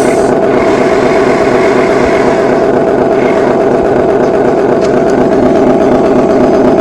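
Motor of a radio-controlled construction machine running steadily: a continuous mid-pitched drone.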